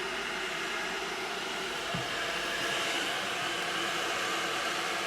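Xiaomi electric kettle heating water: the steady hiss and rush of water coming up to temperature, its characteristic heating noise, growing slightly louder partway through, with a faint knock about two seconds in.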